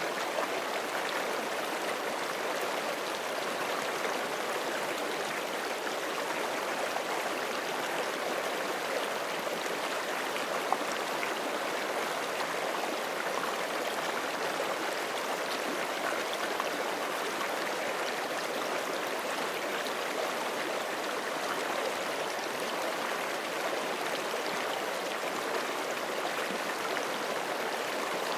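Forest creek running steadily over stones, a continuous rushing and gurgling of water without let-up.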